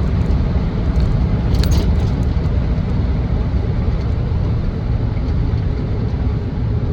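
2007 Land Rover Defender 90 TDCi being driven at road speed: a steady low drone of its Puma diesel engine mixed with tyre and road noise.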